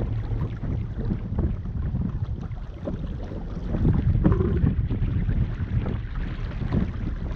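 Wind rumbling on the microphone aboard an RS Zest sailing dinghy under way, with water moving along the hull. It is a steady low rumble that gets a little louder about four seconds in.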